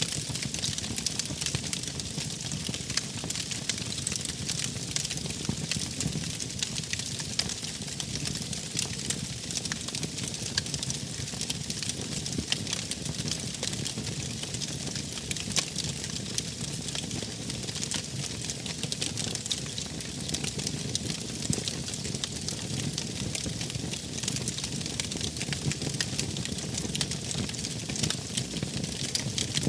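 Wood fire burning steadily, with many small crackles and pops over a low rumble of flames.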